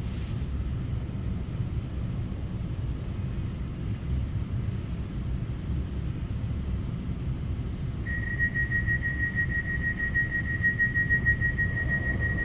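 A TRA EMU900 electric multiple unit running, heard from on board as a steady low rumble of wheels and running gear. About eight seconds in, a steady high-pitched tone joins it and holds.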